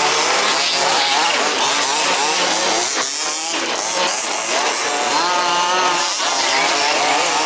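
Several 1/5-scale RC buggies' small two-stroke petrol engines racing together, each revving up and down as they brake and accelerate around the track, with a chainsaw-like buzz.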